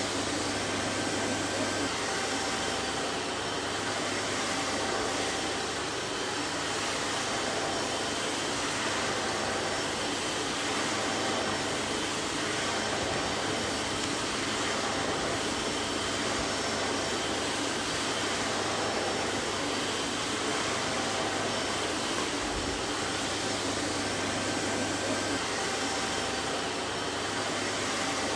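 Vacuum cleaner running steadily, an even rushing noise with a faint hum underneath.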